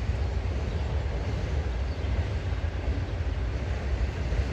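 Old Briggs & Stratton small engine running steadily just after its first start, an even low-pitched engine sound with no misfires or stalling.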